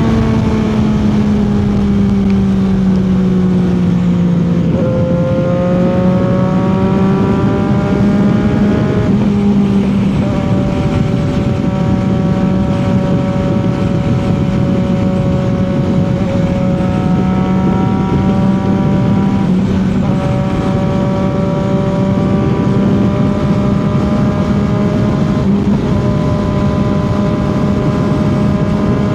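CFMOTO 675's inline three-cylinder engine and exhaust on the highway: the revs fall over the first few seconds, pick up again about five seconds in, then hold at a steady cruise with only small changes in pitch.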